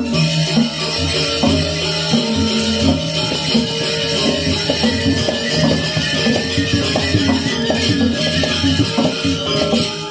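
Balinese gamelan music: pitched metal percussion playing held and repeated notes over a dense, jangling high shimmer.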